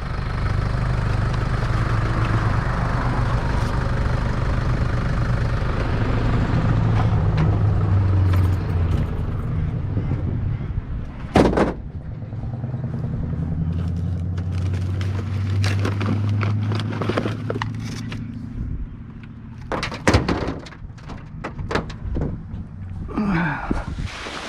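A motor vehicle's engine running steadily with a low hum, easing off near the end, with a few sharp knocks and clatters, one loud one about halfway through.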